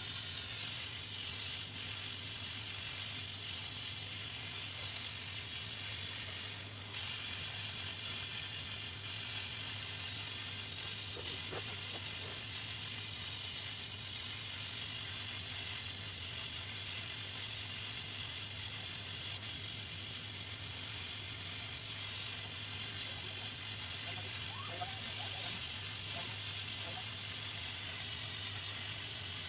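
Steady hiss of a hot-air rework station blowing over a circuit board as the shorted HDMI IC is desoldered, over a steady low hum.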